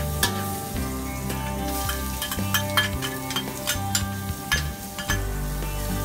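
Metal spatula scraping and clinking against a wok in quick, irregular strokes while shallots, garlic and ginger sizzle in the oil, over background music.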